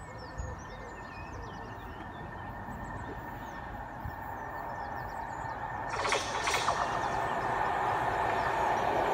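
Locomotive-hauled train approaching along the line, its rumble growing steadily louder, with rail clatter from about six seconds in. Birds chirp in the background.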